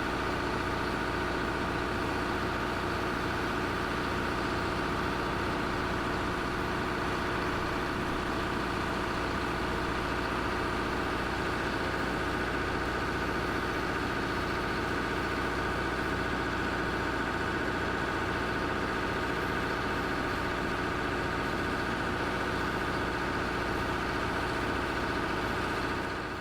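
Heavy vehicle engine idling steadily at an unchanging speed.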